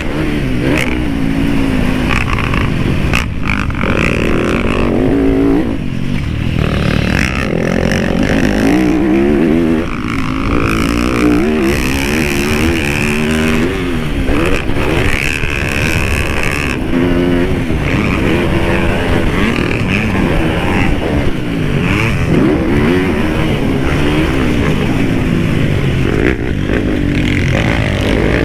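Dirt bike engine ridden hard, its pitch climbing and dropping over and over as the throttle is opened and shut.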